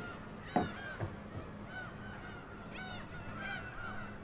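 Geese honking: many short, overlapping calls, several a second.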